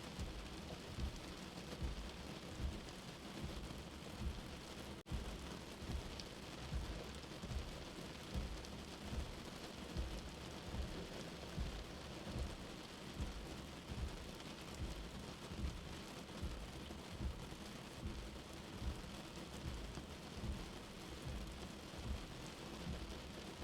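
Steady rain heard as from inside a shelter, mixed with a soft heartbeat: low, regular thumps under the even hiss of the rain. A brief drop in level comes about five seconds in.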